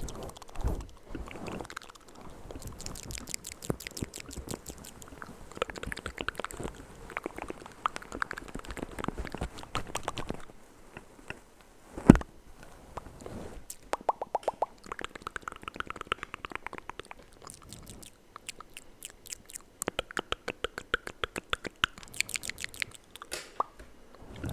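Close-miked ASMR mouth sounds: a dense run of wet clicks, smacks and crackles, with one sharp louder pop about halfway through.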